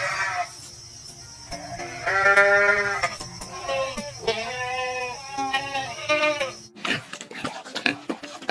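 A goat or sheep bleating about five times, the loudest call about two seconds in, each call wavering in pitch. The bleating cuts off suddenly near the end and gives way to a run of sharp clicks and knocks.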